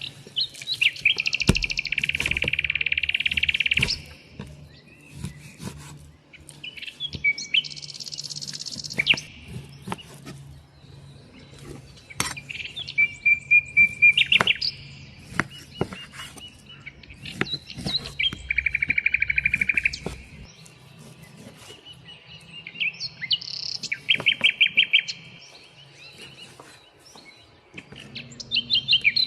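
Songbirds singing in short, repeated trilled phrases every few seconds, with scattered sharp clicks and knocks between them.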